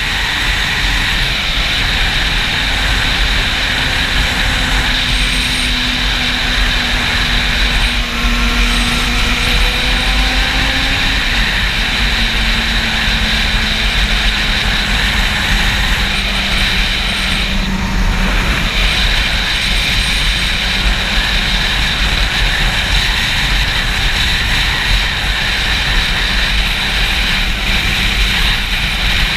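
Wind buffeting a helmet- or bike-mounted action camera's microphone at riding speed, a loud steady rush with heavy low rumble. Under it the Yamaha YZF-R6's inline-four engine is faintly heard, its note climbing slowly and then dropping about a third of the way in.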